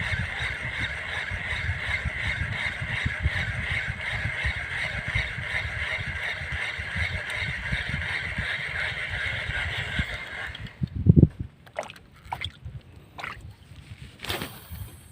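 Fishing reel whirring steadily as line is cranked in during a retrieve, with water sloshing against the small boat's hull. The whirring stops abruptly about eleven seconds in, followed by a loud knock and a few light clicks.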